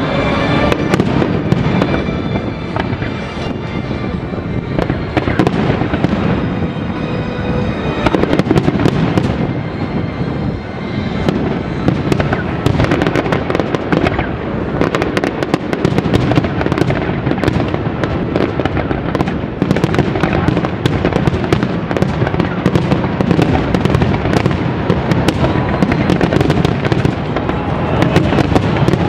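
Aerial fireworks display: many shells bursting in quick succession, a dense, nearly continuous run of bangs and crackles over a low rumble.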